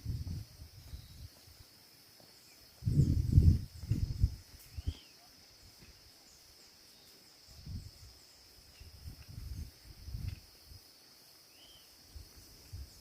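Steady high-pitched drone of insects in the forest, with a couple of faint chirps. Low thumps and rustles of movement close by come loudest about three to four seconds in, then again more softly near the end.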